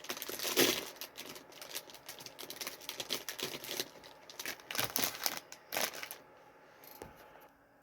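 Plastic snack-cake pouch crinkling as it is handled and torn open, a dense run of crackles that stops about six seconds in.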